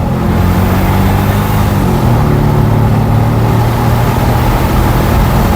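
A 2006 Porsche Cayenne Turbo's twin-turbo 4.5-litre V8 running loud and steady while the car is driven, its exhaust unmuffled because the muffler has been cut off. The engine note holds a low, even pitch, with a small shift about two seconds in.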